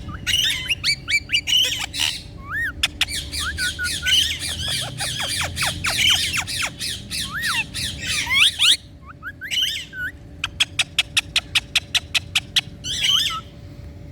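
Indian ringneck parrot chattering and squawking in quick, bending notes. After a short lull it gives a fast, even run of sharp clicks, several a second, followed by another short burst of chatter near the end.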